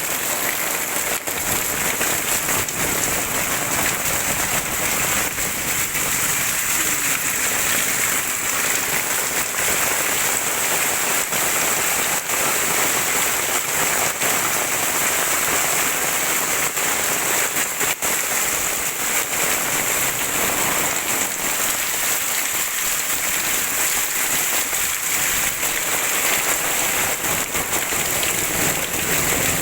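Heavy rain falling steadily: a dense, even hiss with many small drop hits.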